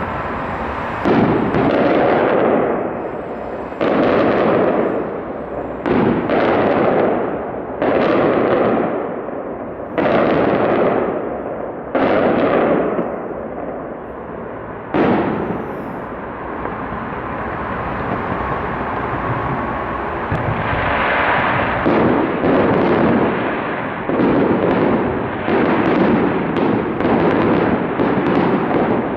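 Aerial fireworks shells bursting overhead, each bang sudden and then trailing off, about one every two seconds. After a short lull in the middle, the bursts come faster and closer together near the end.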